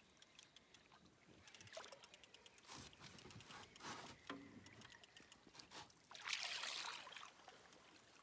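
Faint water trickling and lapping around a small boat, with scattered small clicks and knocks and a brief louder rush of noise about six seconds in.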